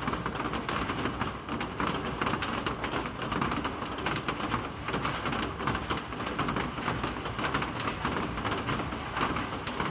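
Steady rain falling, with many separate drops hitting a surface close by throughout.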